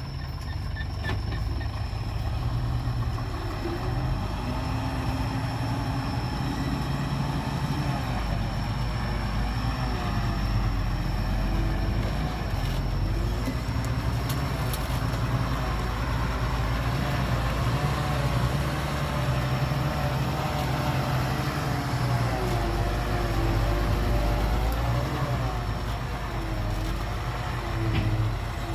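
Heavy diesel engine of earthmoving machinery (dump truck or bulldozer) running continuously, its pitch wavering up and down as the revs change while it works.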